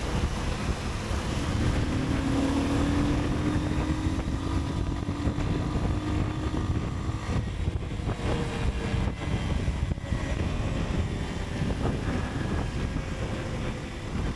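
Motorcycle riding through city streets at night: engine running under a steady rush of wind on the microphone. An engine tone climbs slowly for several seconds and drops away about seven seconds in.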